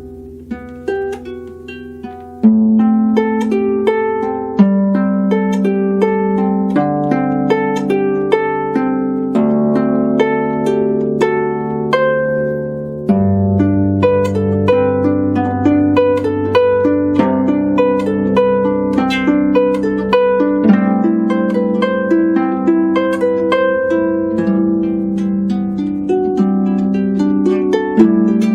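Solo harp being played: quick runs of plucked notes over ringing bass notes. It starts softly, then comes in much louder about two and a half seconds in, with deeper bass notes joining around the middle.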